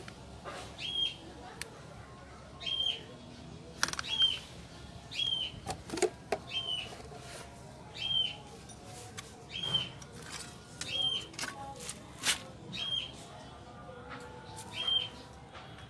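A bird repeats a short chirp roughly once a second. Under it come scattered light clicks and taps as a steel ruler and a thin tin sheet are handled on a wooden bench.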